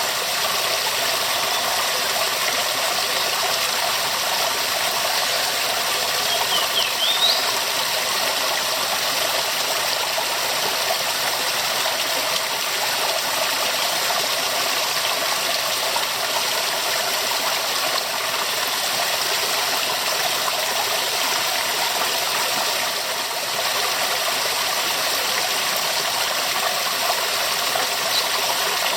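Waterfall rushing in a steady, even hiss of falling water, with a short high chirp about seven seconds in.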